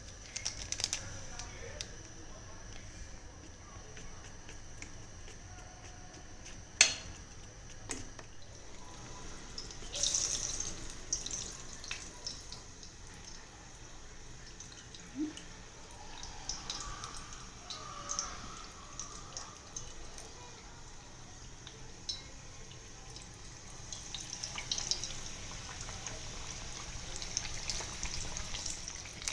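Hot oil sizzling with scattered small pops and crackles as battered snacks deep-fry, with a sharp clink about seven seconds in and a louder rush of crackling around ten seconds in.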